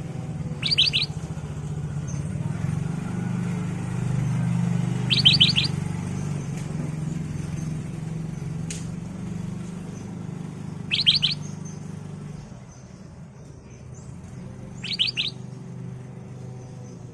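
Black-crested bulbul calling four times, each a quick run of three or four sharp notes. A steady low hum runs underneath and fades about two-thirds of the way through.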